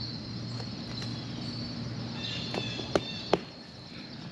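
Insects trilling steadily in a high thin tone over a low hum, with two sharp clicks close together about three seconds in.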